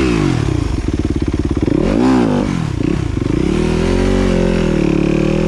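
Dirt bike engine being ridden, the revs rising and falling several times with sharp peaks near the start and about two seconds in, then running at a steadier, lower speed.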